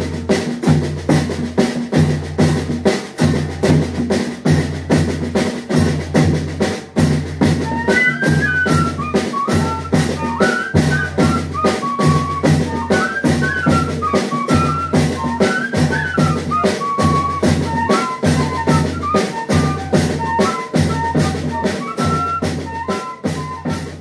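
Banda de pífano playing: bass drum and snare keeping a steady beat, with a fife melody coming in about eight seconds in.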